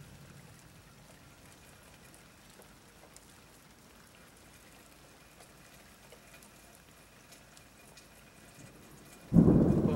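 Faint steady patter of rain, then about nine seconds in a loud thunderclap breaks in suddenly and rumbles on.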